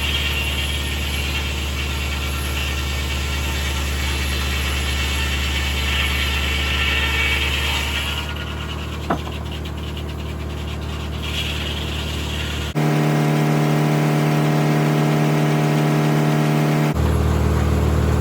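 Tractor engine running steadily to drive a circular sawmill. About two-thirds of the way through, the sound switches suddenly to a different steady hum for about four seconds, then switches back.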